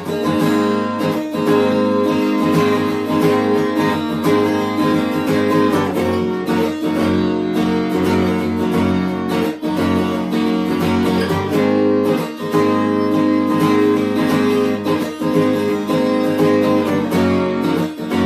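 Acoustic guitar strummed in steady rhythm, playing an instrumental passage of changing chords with no singing.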